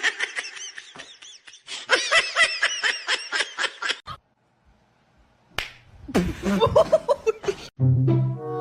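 Laughter in a rapid string of short, high giggles for about four seconds. After a brief pause come more voice sounds, and music starts near the end.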